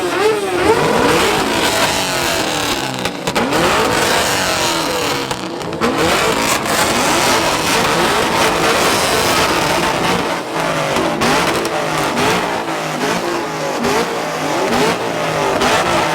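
Several car engines revving over and over, their pitches climbing and falling and overlapping one another.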